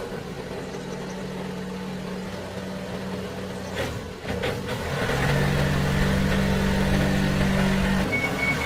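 Small motorcycle engine running again after the roadside repair. It runs steadily, then gets louder from about five seconds in as it is revved or pulls away.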